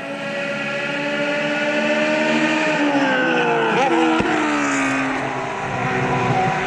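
Racing cars passing at speed on the circuit. The engine notes grow louder, then drop in pitch as the loudest car goes by about four seconds in, and another car's engine carries on after it.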